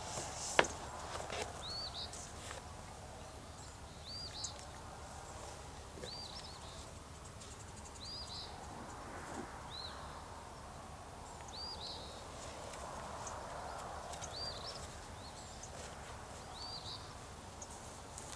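A songbird repeating a short, high chirp about once a second. About half a second in there is a single sharp knock, with a few lighter clicks and rustling, as a man climbs down the metal legs of a tripod blind with his gear.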